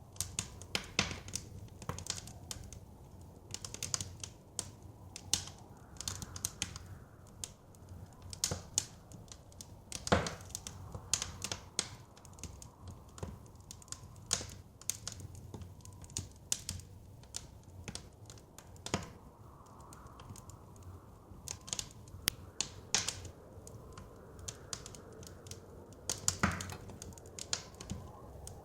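Wood fire crackling, with irregular sharp pops and snaps over a low rumble of flames; the loudest snap comes about ten seconds in. A faint soft wind swells now and then behind the fire.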